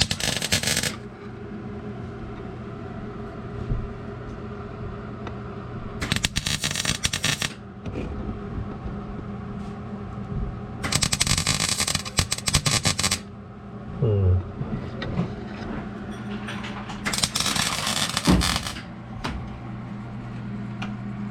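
Electric welder laying tack welds on a steel floor patch panel: four crackling bursts of one to two and a half seconds each, with pauses between them. A steady low hum runs underneath.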